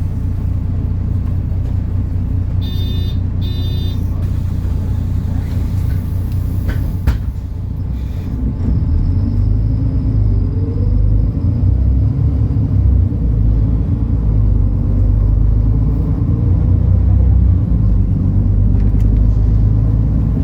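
MAN Lion's City NL293 city bus's diesel engine running with a steady low rumble, with two short beeps about three seconds in and a sharp knock about seven seconds in. From about eight seconds the engine pulls harder and grows louder, its tone rising briefly.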